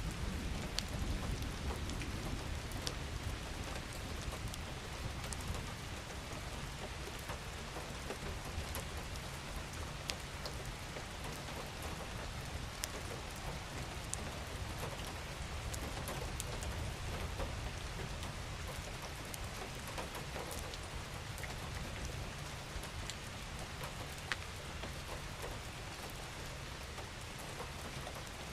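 Steady rain falling: a dense, even hiss with scattered individual drops ticking on a surface. A low rumble sits underneath, strongest in the first several seconds.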